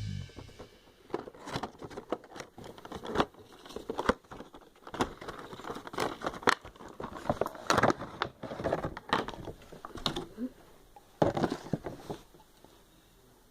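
A Funko Pop toy's cardboard-and-plastic box being handled and opened: irregular rustling, crinkling and light tapping, louder in bunches around six to eight seconds in and again near eleven seconds, dying away near the end.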